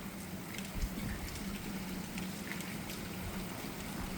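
Steady storm ambience: gusty wind and rain noise with faint scattered drop ticks and a steady low hum underneath.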